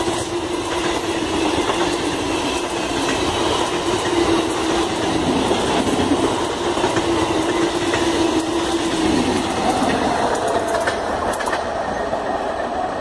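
ASN-JSME MEMU electric multiple-unit passenger train passing close at speed: a loud, steady rush of wheels on rail with clicking over the rail joints and a steady hum under it.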